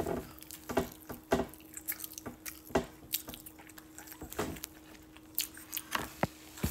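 Wet chewing and smacking mouth sounds of someone eating saucy fried chicken, in short irregular clicks and squishes, over a faint steady hum.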